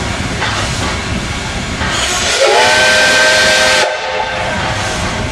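Whistle of the steam locomotive L-0022 sounding one blast of about a second and a half. It is a chord of several tones that rises slightly as it opens, with a rush of steam hiss, and it cuts off suddenly. A steady rumbling noise runs under it.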